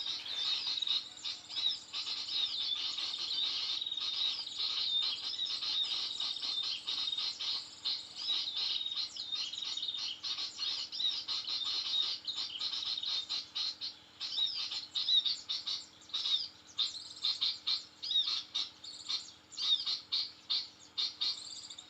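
Small birds chirping and twittering rapidly, a dense stream of high notes. The stream runs unbroken at first, then breaks into separate bursts of chirps after about 14 seconds.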